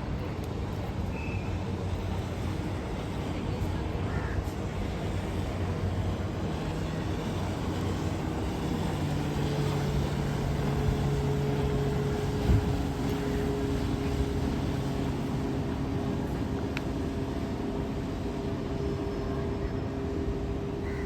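Boat engine running steadily over wind and water noise, its tone shifting to a new pitch about nine seconds in. A single knock about twelve seconds in.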